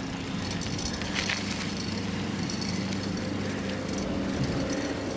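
Riding a bicycle on a paved road: steady wind and rolling noise on the microphone, with a steady low engine hum underneath.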